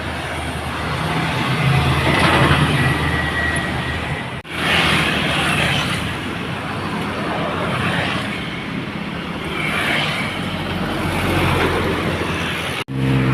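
Loaded dump truck's diesel engine running, with steady road and tyre noise. The sound cuts out suddenly twice, once about a third of the way in and once near the end.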